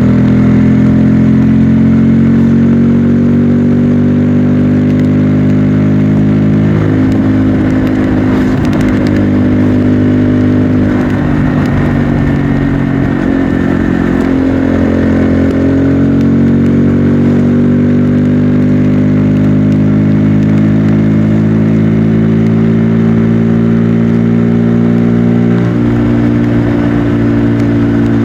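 Bajaj Pulsar N250's single-cylinder engine and stock exhaust on the move, the pitch climbing slowly as the bike pulls through each gear. It drops with a gear change about a quarter of the way in, again around halfway, and near the end.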